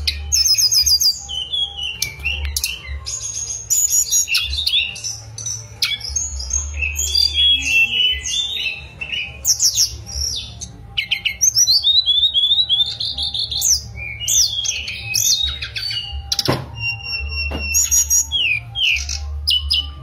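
Tledekan gunung, a small blue flycatcher, singing a fast, varied song of whistles, trills and chattering notes in quick succession, over a low steady hum.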